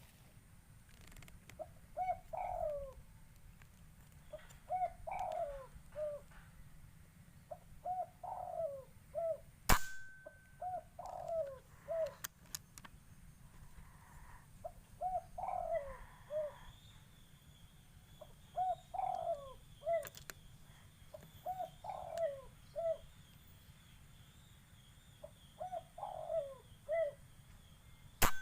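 Spotted dove (tekukur) cooing in repeated short phrases of a few notes, a new phrase every few seconds. Two sharp cracks of an air rifle shot cut in, one about ten seconds in and one at the very end, the loudest sounds here.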